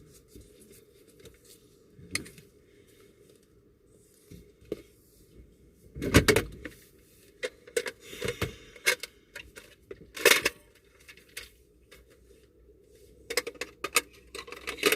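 Scattered clicks, knocks and rattles of small hard objects being handled, in irregular clusters, over a faint steady low hum.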